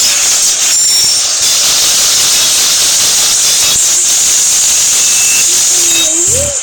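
Loud steady hiss that drops away near the end.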